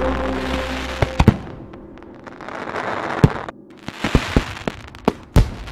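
Fireworks going off: irregular sharp bangs, two close together about a second in and a cluster of them in the second half, with crackling and hiss between.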